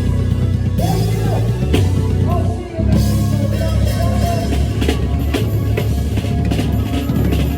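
A band playing a funk-rock song on drum kit, bass and guitar, with a brief dip about two and a half seconds in and the drums hitting harder in the last couple of seconds.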